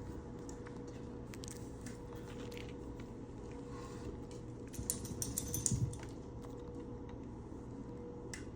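A dog chewing a treat: irregular crunching clicks, with a louder burst of crunching about five seconds in.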